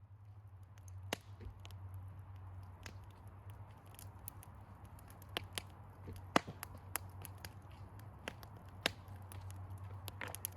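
Wood fire crackling, with irregular sharp pops over a low steady hum.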